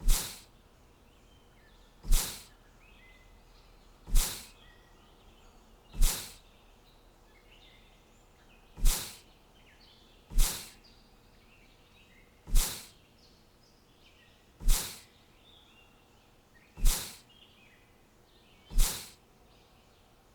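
A short, sharp sound effect strikes ten times, roughly every two seconds, each one dying away within about half a second. Faint bird chirps continue between the strikes.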